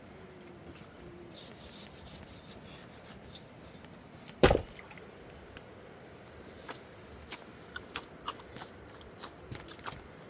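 One loud sharp knock about four seconds in, then scattered light taps and clicks of something being handled.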